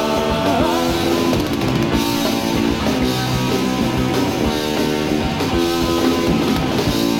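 Punk rock band playing live, an instrumental stretch of electric guitar and drum kit with no singing.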